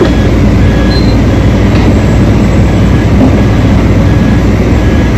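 Large diesel engine of heavy mining equipment running at a steady speed: a loud, constant low rumble with no breaks.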